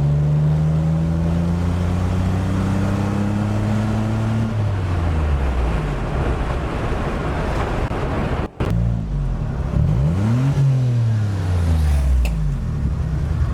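Engine of a homemade car built from scrap parts, its pitch climbing steadily for about four and a half seconds as it accelerates, then dropping. After a brief break the pitch rises and falls again as the car drives past.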